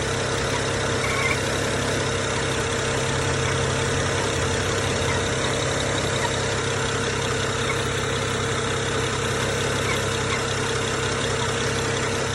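BMW 335is N54 twin-turbo inline-six idling steadily, with a faint, intermittent higher noise now and then and no real rhythm to it. It is the noise of a faulty PCV valve.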